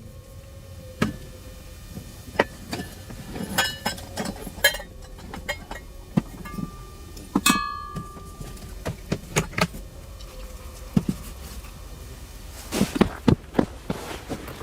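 Scattered knocks, clinks and rustles of camping gear being unpacked and a tent being pitched, with a brief ringing tone about seven and a half seconds in and a quick run of knocks near the end.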